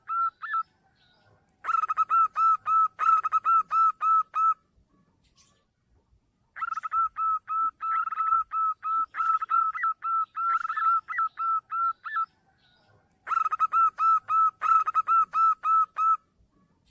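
Zebra dove (perkutut) calling: runs of short, clipped cooing notes, about four or five a second, in three long bursts separated by pauses of one to two seconds.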